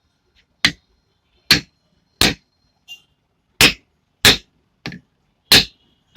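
Light plastic hammer tapping a new ball bearing into a ceiling fan's bearing seat: about eight sharp taps at an uneven pace, a couple of them softer, several leaving a short high metallic ring.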